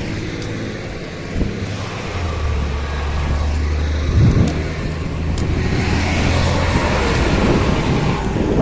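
Road vehicle engine running close by, its low drone growing louder from about two seconds in as the vehicle moves past.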